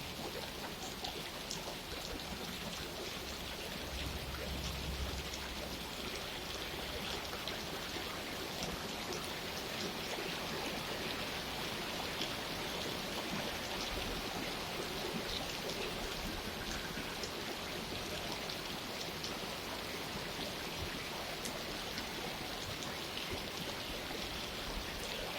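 Steady rain falling, a constant hiss with many small drop ticks, with a faint low rumble about four to six seconds in.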